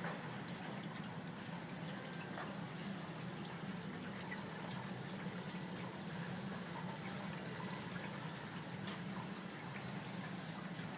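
Tabletop mist maker water fountain running: water trickling and dripping steadily over the fountain, with a steady low hum from its pump.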